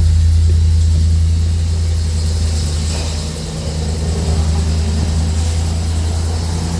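A 2022 Blue Bird Vision school bus's propane engine idling steadily, with a deep low hum and a brief dip in level about halfway through.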